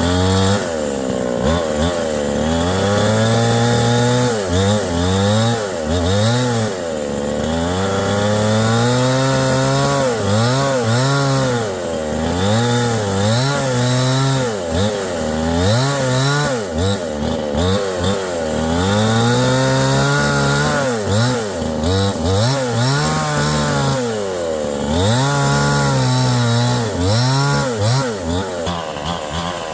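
Chainsaw running steadily, its engine pitch repeatedly dropping and climbing back every second or two.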